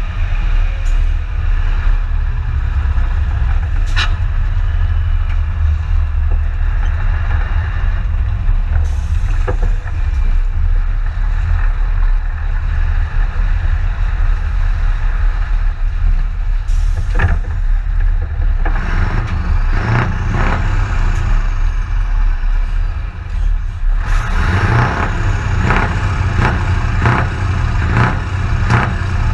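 Scania T144's 14-litre V8 diesel running steadily with a deep, continuous rumble. It grows busier and louder for the last few seconds.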